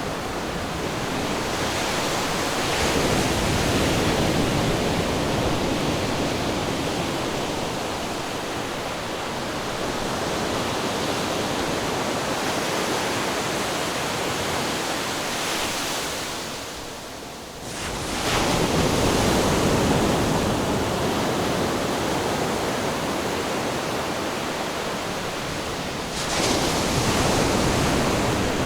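Ocean surf washing continuously, with louder waves breaking about three seconds in, again just after a brief lull around the middle, and once more near the end.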